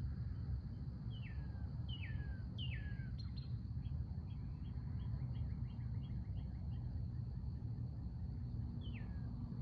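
A songbird singing outdoors: three clear whistled notes that each slide downward, then a quick run of short repeated notes, and one more downward-sliding whistle near the end, over a steady low rumble of background noise.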